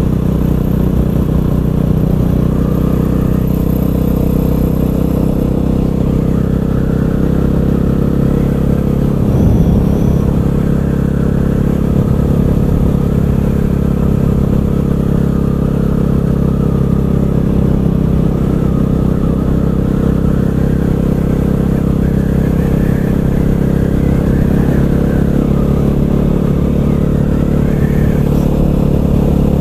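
KTM 500 EXC supermoto's single-cylinder four-stroke engine running steadily while riding, with a brief change in its note about ten seconds in.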